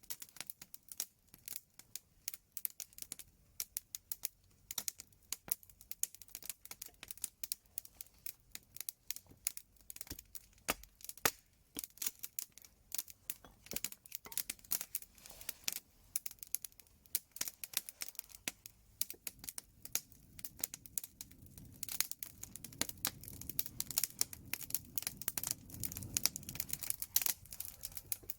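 Wood fire crackling, with dense, irregular sharp pops and snaps. A low rumble rises underneath in the last third.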